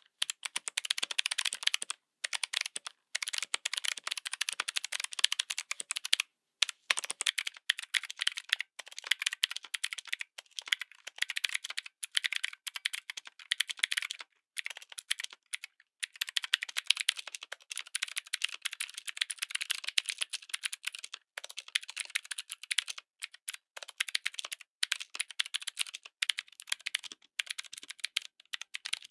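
Mechanical keyboard with clicky switches being typed on continuously: a dense, fast run of sharp, crisp clicks, broken by a few brief pauses.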